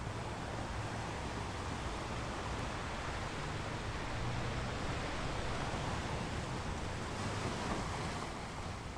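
Waves washing onto a beach: a steady hiss of surf that swells in the middle and eases off near the end.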